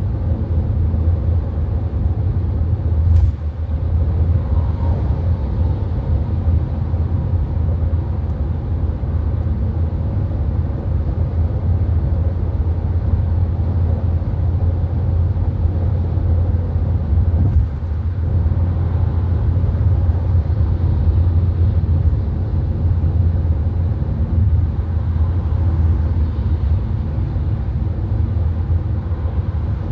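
VW Golf cruising at motorway speed: a steady low rumble of tyre, road and engine noise heard from inside the car, with a couple of faint ticks about three seconds in and again around seventeen seconds.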